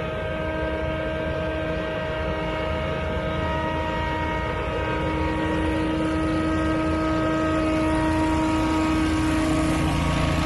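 Powered leaf blowers running steadily at work: a constant fan whine over engine and rushing-air noise, growing a little louder in the second half.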